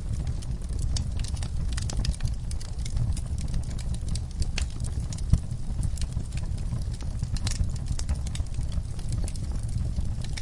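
Wood fire in a fireplace crackling: irregular sharp pops and snaps over a steady low rumble, with one louder pop about five seconds in.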